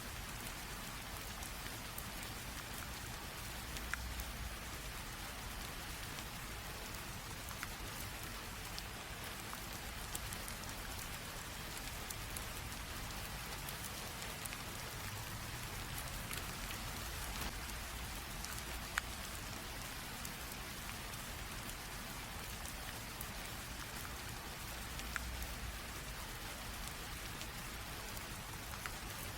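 Light rain falling steadily: an even hiss with scattered individual drop ticks.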